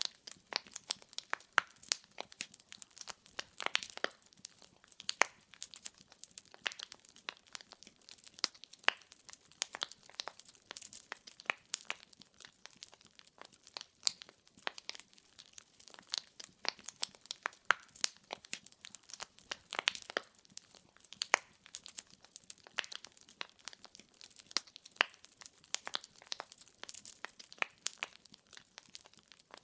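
Wood fire in a fireplace crackling, with many irregular sharp pops and snaps from burning logs over a faint hiss.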